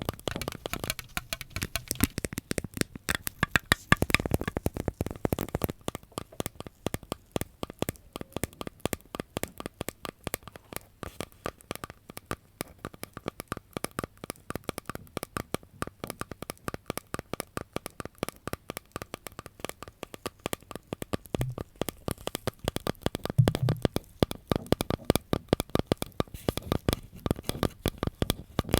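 Close-up ASMR trigger sounds: a dense stream of rapid crackling and tapping clicks close to the microphone, busier and louder around the fourth second and again near the end.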